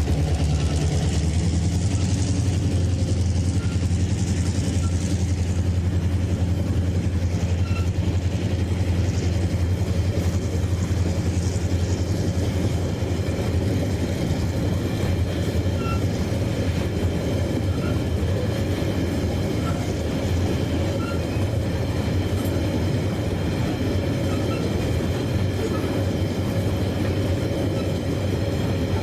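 Train running along the track with a steady, heavy low rumble.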